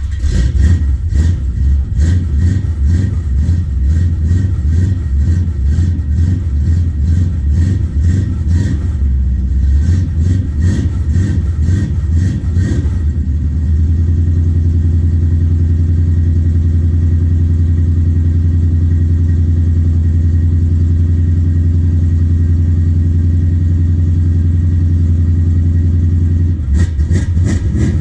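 1971 Chevrolet C10 pickup engine just after a cold start, running rough and uneven for about the first 13 seconds, then settling into a steady, even idle. It turns uneven again near the end.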